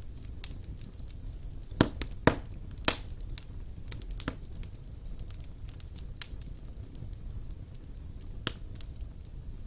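Wood fire burning in a fireplace: a low steady rumble of flame with scattered sharp crackles and pops, the loudest three cracks close together about two to three seconds in.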